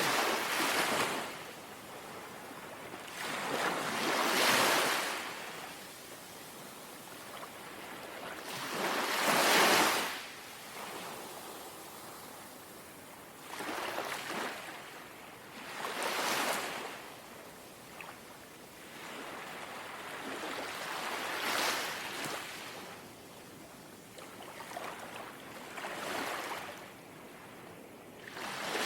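Small, gentle sea waves lapping, each wash of water swelling and fading away every three to five seconds.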